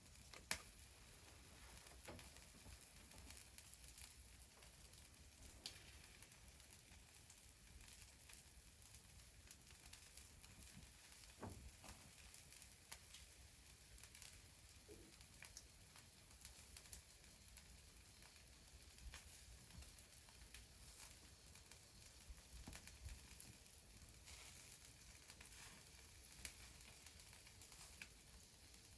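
A wood fire crackling faintly, with scattered small pops and one sharper pop about half a second in.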